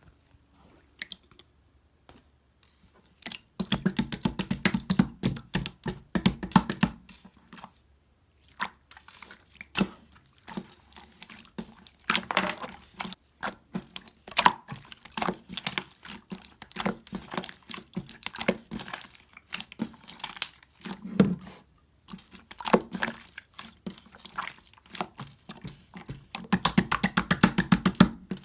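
Gold-pearl slime being squished and pressed by hand, giving trains of sticky clicks and crackling pops. It is nearly quiet for the first few seconds, and the clicks come fastest near the end.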